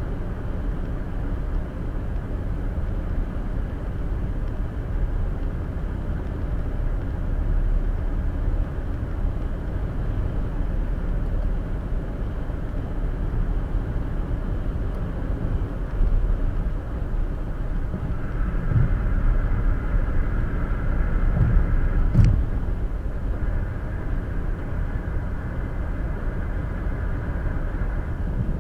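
Steady low rumble of a car's tyres and engine on the highway, heard from inside the cabin through the dash cam's microphone, with a single sharp knock about three-quarters of the way through.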